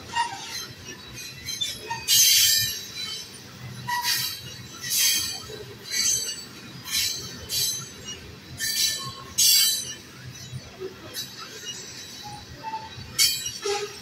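Loaded tank cars of a freight train rolling past on the rails, with a steady low rumble and short high-pitched wheel screeches about every second.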